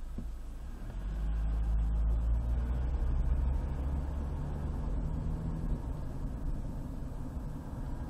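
Road noise of a moving car: a low rumble of engine and tyres that grows louder about a second in, with a low engine hum for a few seconds.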